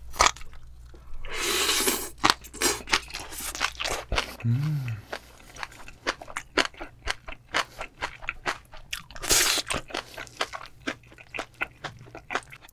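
Close-miked chewing with many crisp crunches in quick succession, as a person bites and chews crunchy food. There are two longer hissing sounds, about one and a half and nine and a half seconds in, and a short hum about four and a half seconds in.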